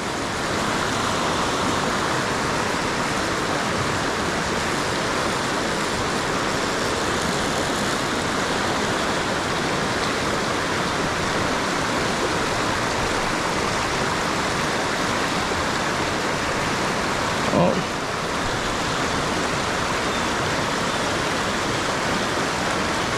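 Fast river current rushing steadily over rocks, a constant hiss of flowing water. About three-quarters of the way through, a brief tone rises and falls once over it.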